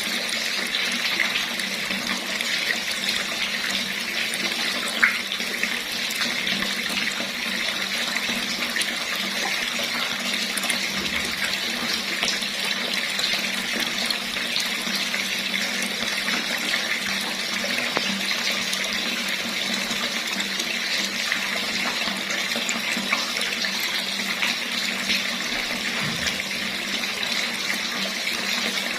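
Water running steadily from a tap, an even splashing hiss with no change in flow. One brief tick comes about five seconds in.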